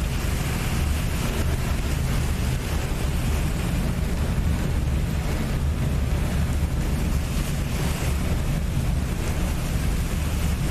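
Steady deep rumble and water noise on board a lake passenger boat, with wind on the microphone.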